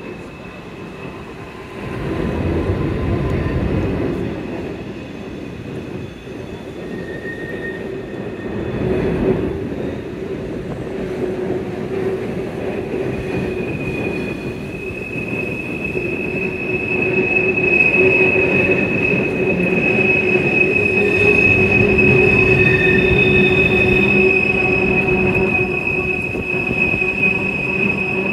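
CSX freight train of double-stacked containers rolling across a steel girder bridge: a steady rumble of wheels on rail, with a high, steady wheel squeal that sets in about halfway through.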